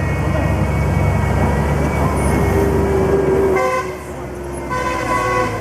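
JCB 205T tracked skid steer loader running hard, its engine a pulsing low rumble with a whine over it. About three and a half seconds in, a short horn-like tone sounds for about a second.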